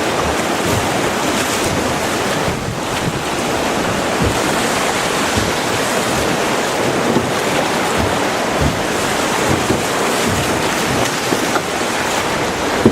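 Steady rushing of river water around a fishing boat, with wind buffeting the microphone.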